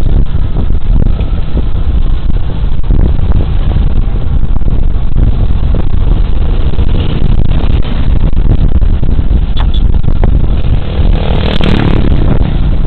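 Wind buffeting a body camera's microphone, with road and engine noise from a Suzuki Burgman Street 125 scooter riding at speed: a steady, heavy low rumble. A louder rush swells about eleven seconds in.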